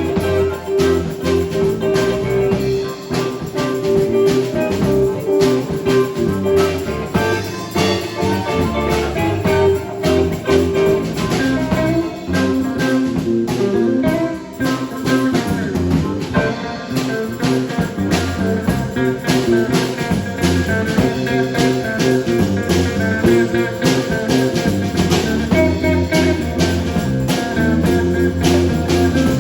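A band playing blues-style music, guitar out front with drums keeping a steady beat.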